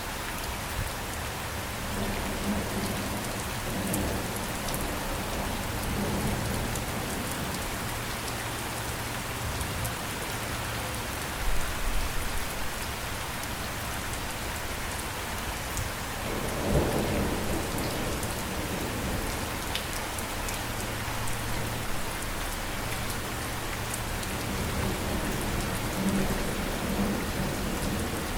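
Steady rain with low rolls of thunder, the loudest swells about twelve and seventeen seconds in.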